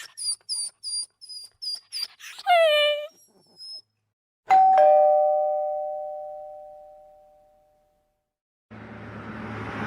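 A two-tone doorbell chime, a high note then a lower one, sounds about halfway through and fades out over a few seconds. Before it comes a quick run of short high squeaks ending in a falling yelp-like call. Near the end a steady noise with a low hum starts.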